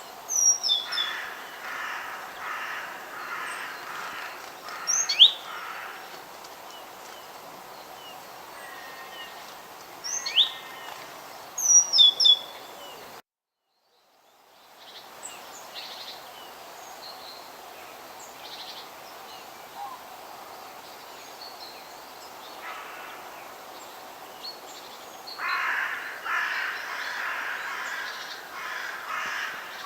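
Forest birds calling over a steady background hiss: sharp, quick chirps that sweep in pitch, and long runs of harsh, rasping calls repeated in quick series. The sound cuts out completely for about a second and a half near the middle, then fades back in.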